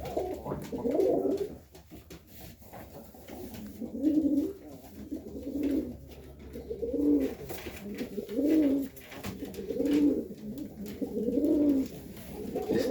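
Serbian Highflyer pigeons cooing in the loft: a series of low, rolling coos repeating about every second and a half.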